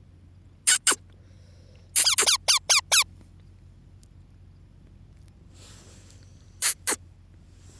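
Baby parrot chick giving short, shrill squeaks, each falling sharply in pitch: a pair, then a quick run of about six, then another pair near the end.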